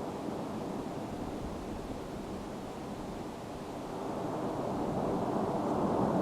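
Steady low rushing roar of Mount Etna erupting, growing a little louder near the end.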